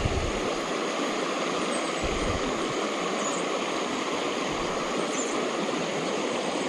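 Steady rush of flowing creek water, with a few brief low bumps.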